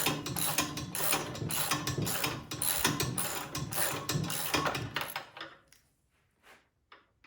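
Ratchet wrench clicking rapidly as the snowblower's spark plug is turned out, stopping about five seconds in, with a few faint clicks after.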